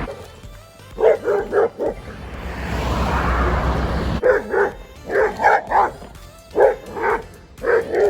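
A Malinois cross dog barking in repeated quick runs of two to four barks, the reactive barking of a dog being worked on for barking at people and other dogs. A rushing noise sits between the first run and the rest.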